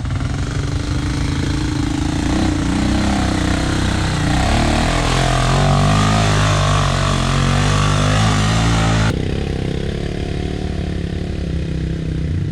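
ATV engine running under throttle, its pitch rising and getting louder as it pulls, then dropping suddenly about nine seconds in to a lower, steady running sound.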